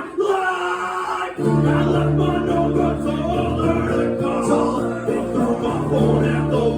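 Live acoustic band music with a singing voice over the instruments. The low bass notes drop out at the start and come back in about a second and a half in.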